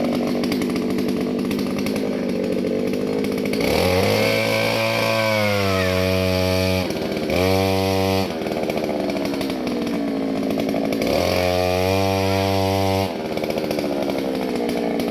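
Small two-stroke engine running, revved up to high speed three times: about four seconds in, again briefly near seven seconds, and once more around eleven seconds, dropping back to a lower speed between.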